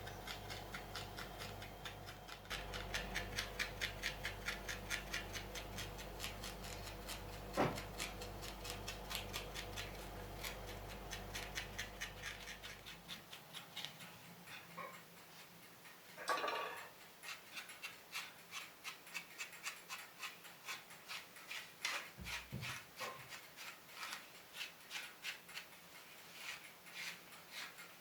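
Felting needle stabbing repeatedly into wool, a steady run of soft ticks several times a second. A low hum underneath stops about halfway through, and a brief louder sound interrupts the ticks about two-thirds of the way in.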